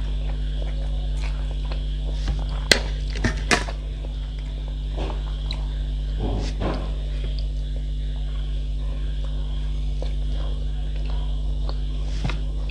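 Eating sounds of masala Maggi noodles and momos: soft chewing, with three sharp clicks close together about three seconds in, over a steady low hum.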